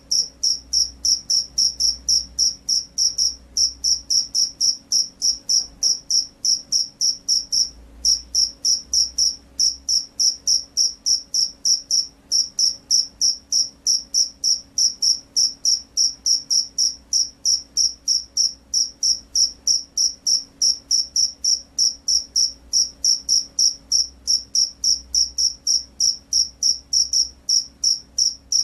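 Rice-field cricket (jangkrik sawah) chirping vigorously, a high, even chirp repeated about three to four times a second, with brief breaks about 3 and 8 seconds in. A faint low steady hum lies underneath.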